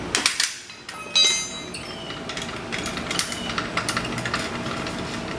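Car jack being let down under the car: a loud metal clank that rings briefly about a second in, then a run of irregular metallic clicks and knocks as the jack is worked.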